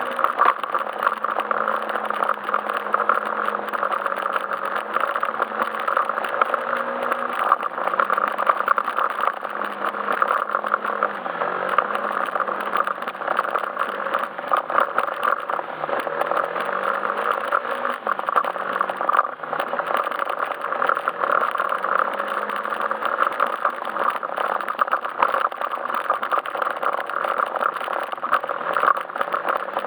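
Yamaha Majesty S SP scooter's single-cylinder engine running under way, its pitch rising and falling a little with throttle and speed. Dense rattling and clicks run over the engine note.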